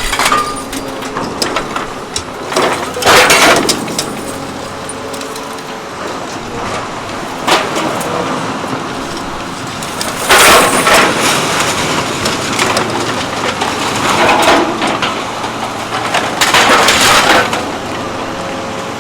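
Scrap metal crashing and cracking as it is crushed and broken by a metal crusher, several irregular loud crashes, over the steady hum of the running machine.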